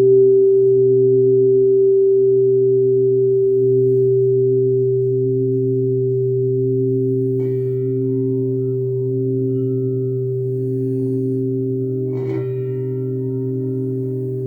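Crystal singing bowls sounding several long, layered tones at once, one of them pulsing slowly. Two light strikes, about halfway and near the end, each add a higher ringing tone over the hum.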